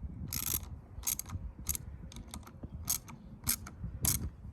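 Socket ratchet clicking in short bursts about every half second, working a mirror's handlebar clamp bolts tight.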